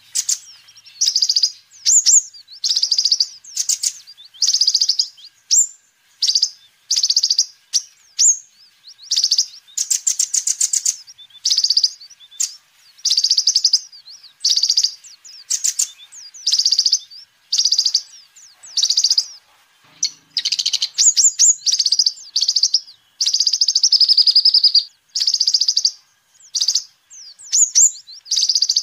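Kolibri ninja, a sunbird, singing energetically: short, high, buzzy trilled phrases repeated about once a second with only brief pauses between them.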